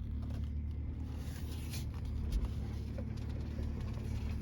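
Steady low car engine rumble, with a few faint clicks, heard from inside a car as it is pulled along on tow straps.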